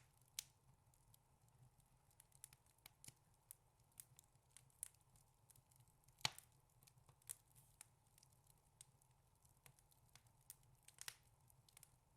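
Wood fire crackling: scattered sharp snaps and pops, the loudest about six seconds in and a quick cluster near the end.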